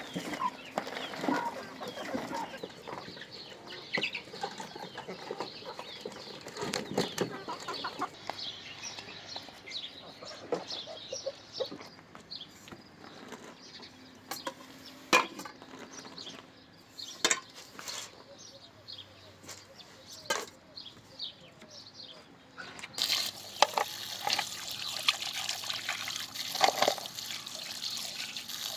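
Chickens clucking and calling, with sharp knocks now and then. Near the end, running water starts and carries on as a steady hiss.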